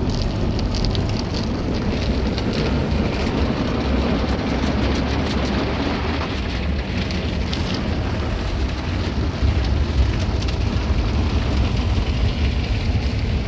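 Automatic drive-through car wash spraying water onto a car: a steady hiss and patter of spray over a low machine rumble.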